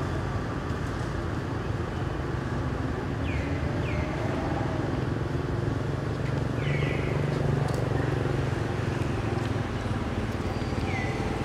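Steady low rumble of a motor vehicle engine running, with a few short, high, falling chirps now and then.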